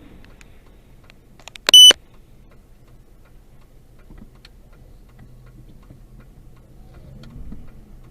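Faint, regular ticking over a low steady hum, cut by one loud, short, high-pitched electronic beep about two seconds in.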